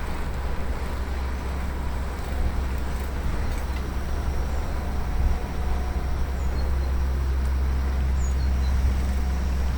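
Steady low rumble of cycling along a road, from wind on the microphone and tyre noise, with a motor vehicle's hum growing louder in the second half. A few faint high chirps near the end.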